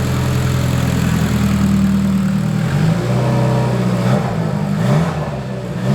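Car engine idling with its automatic gearbox in drive, the engine note wavering briefly in the middle; no odd noise from the gearbox, which the owners hear as nothing wrong.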